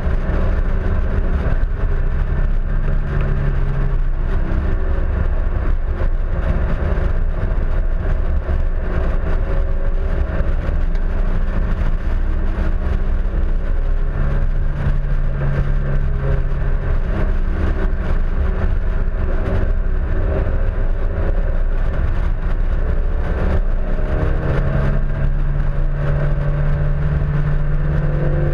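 Honda S2000's four-cylinder engine running hard on track, its pitch rising and falling with throttle and gear changes, under a heavy, constant low rumble of wind and road noise on the fender-mounted microphone.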